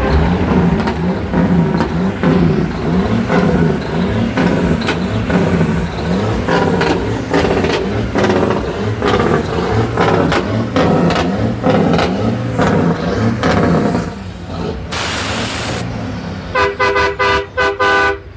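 Truck engine running from inside the cab. Around three-quarters of the way through there is a hiss of air lasting about a second, then a quick series of short horn toots near the end.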